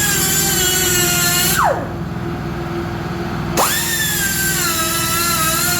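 A handheld power tool's motor running at a high whine. It winds down quickly about two seconds in, then spins back up and runs on.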